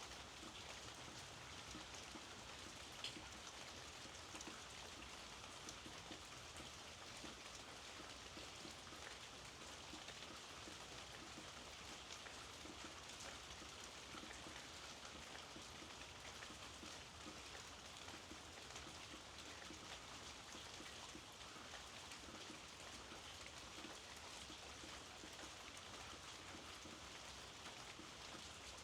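Faint, steady rainfall with many small droplet ticks, and one slightly louder drop about three seconds in.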